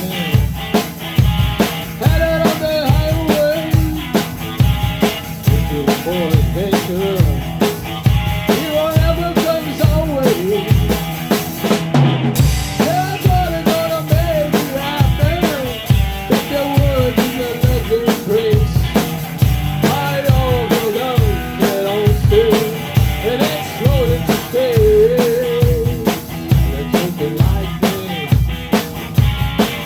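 Rock music played on a full drum kit, with bass drum and snare keeping a steady beat under a bending melodic line. The cymbals drop out briefly about twelve seconds in.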